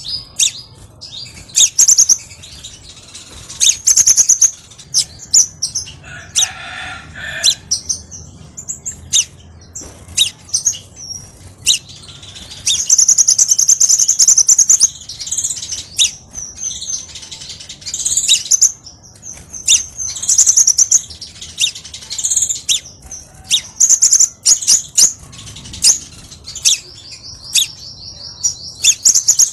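Crimson sunbird singing: phrases of rapid, high-pitched chirps and trills, with sharp clicks between them and a long, fast buzzing trill near the end.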